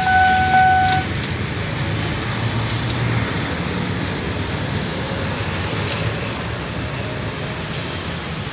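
Passenger train moving out of the station, a steady rolling rumble with a low engine drone that drops away about three seconds in. A steady high-pitched tone with a faint tick about twice a second cuts off about a second in.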